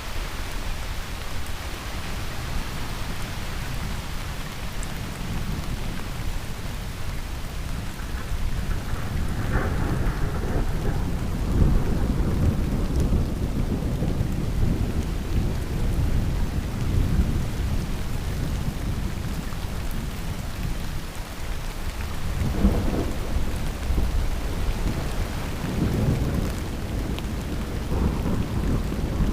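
Heavy rain falling steadily with rolling thunder. A long, deep rumble builds about ten seconds in and lasts several seconds, and shorter rumbles come near the end.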